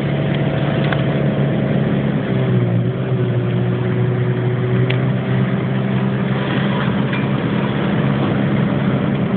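Car engine running steadily at low road speed, with road noise and a few brief knocks.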